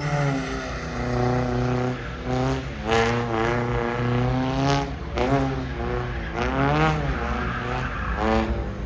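Car engine revving hard, its pitch climbing and dropping again and again with sharp rev surges, as the car is driven through slides and slalom turns.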